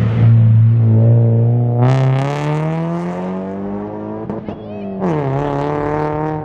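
Car engine running loudly, then revving up with a pitch that climbs over about two seconds, dropping back about five seconds in and holding steady.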